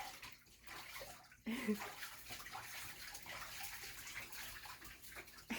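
Water running and splashing in a bathtub as a pet duck is bathed.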